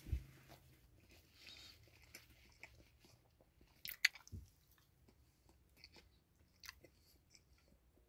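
A person chewing a mouthful of roast beef sandwich on a soft sesame seed bun, quiet with small wet mouth clicks, and a few sharper clicks about four seconds in.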